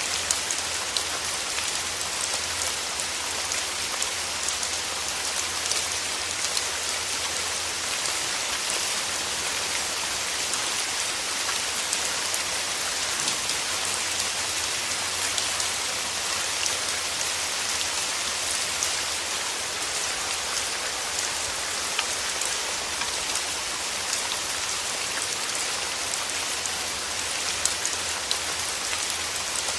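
Steady rain: an even hiss with many individual drops ticking sharply, over a faint steady low rumble.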